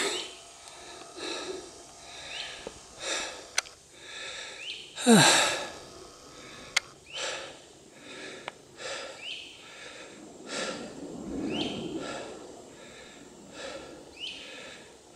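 Juvenile American alligators chirping: a series of short, rising grunting calls repeated every second or two. One louder call about five seconds in sweeps steeply down in pitch.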